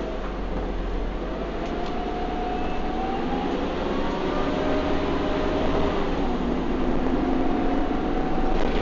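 A bus's engine and transmission heard from on board as it accelerates. Whining tones climb in pitch and the running gets slowly louder, with a shift in the engine drone about six seconds in, like a gear change.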